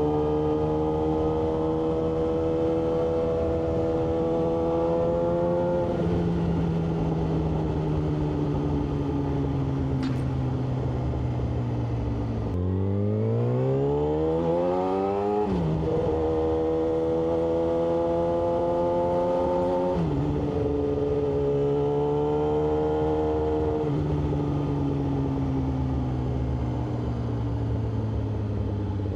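Yamaha R6 600 cc inline-four sport bike engine running under way, holding a steady note with pitch steps at gear changes. About halfway through, it revs hard for about three seconds, rising steeply in pitch, before an upshift drops it back.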